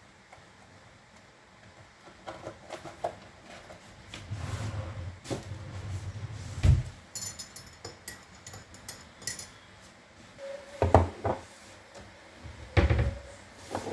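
Scattered knocks, thumps and clinks of objects being handled in a small room, quiet for the first two seconds, with the loudest knocks about seven, eleven and thirteen seconds in.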